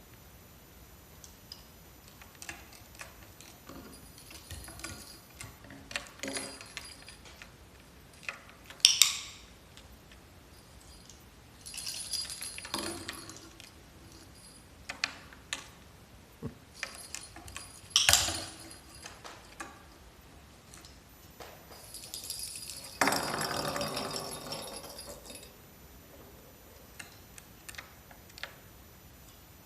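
Light metallic clinking and jingling among scattered small taps and clicks. There are louder jingling bursts about 9, 12, 18 and 23 seconds in; the last is the longest, at about two seconds.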